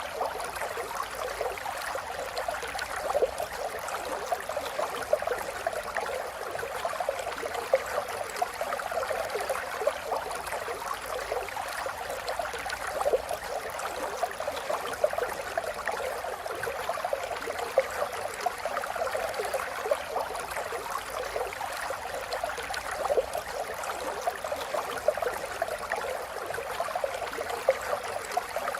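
River water flowing steadily over stones, a continuous rushing and babbling with many small splashes.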